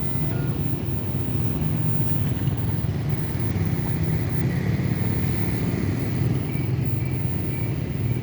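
Steady low rumble of passing vehicles, with a few faint short high tones near the end.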